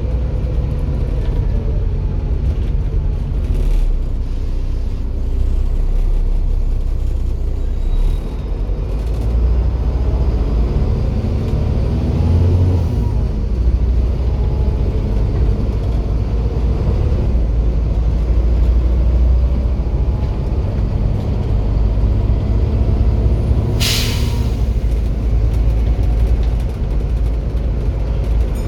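Volvo B7 bus's six-cylinder turbo-diesel engine running and pulling, its pitch and level rising and falling, with a faint turbo whistle above it. A short, sharp release of air from the bus's air system comes near the end.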